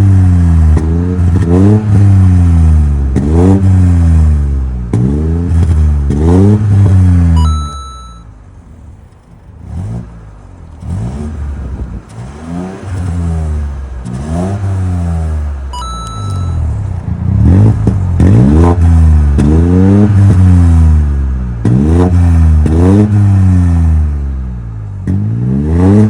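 BMW 2 Series' 1.5-litre turbocharged three-cylinder being blipped repeatedly, about once a second, through an exhaust fitted with a vacuum-operated cutout valve. It is loud at first. After a short beep about seven seconds in, the revs turn much quieter, as with the valve closed. After another beep about sixteen seconds in, the loud blips return.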